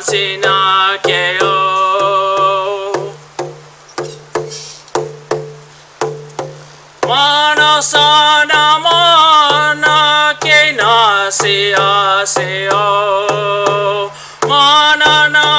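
A man singing a Native American spiritual chant in long, wavering held notes over a steady drumbeat of about two strikes a second. The voice drops out for a few seconds in the middle, leaving the drum alone, and comes back about seven seconds in.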